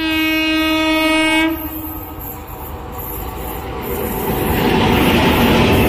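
WAP-4 electric locomotive sounding its horn in one blast of about a second and a half. Then the train's running noise grows louder as the locomotive and its coaches pass at speed.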